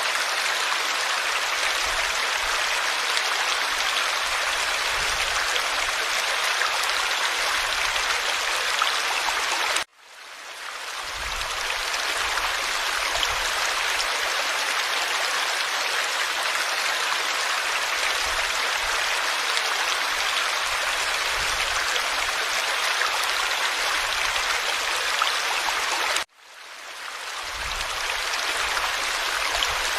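Forest stream water flowing over rocks: a steady rush and babble. It cuts out abruptly twice, about ten seconds in and again near the end, each time fading back in over a second or so.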